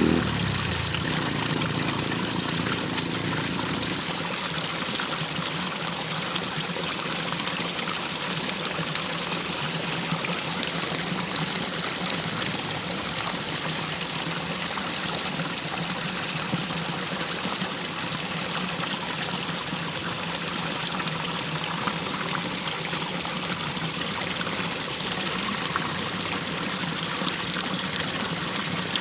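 Steady rushing of running water in a drain during rain. A motor's low hum dies away in the first few seconds.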